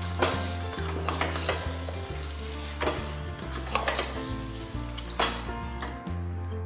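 Mutton pieces and onion-tomato masala sizzling in a hot metal pot while being stirred, with the spatula scraping and knocking against the pot every second or so. Soft background music with held low notes plays underneath.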